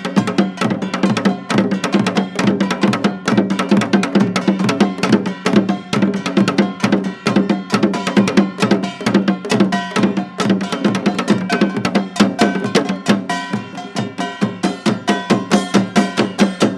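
Live music with a fast, dense run of percussion strikes over a steady low held tone.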